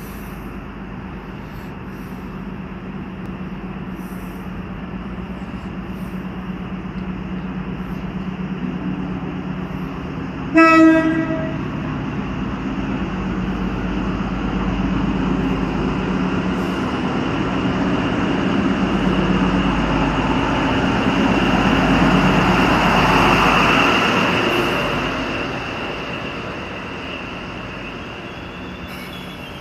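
Passenger train arriving along a station platform: a steady low running hum grows louder, with one short horn blast about ten seconds in, then the rolling noise of the passing carriages swells to its loudest a little past two-thirds through and fades near the end.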